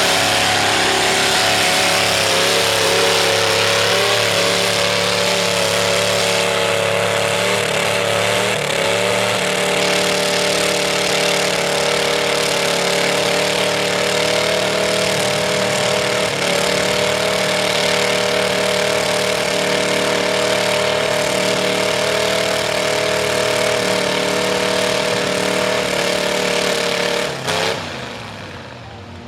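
V8 Ford mud truck engine running through open upright headers, held at high revs with its pitch stepping slightly a couple of times, then dropping away shortly before the end.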